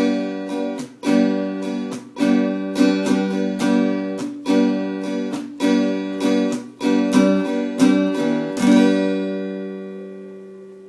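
Acoustic guitar strumming the closing chords of a song, about one strum a second. The last chord comes near the end and is left to ring and fade away.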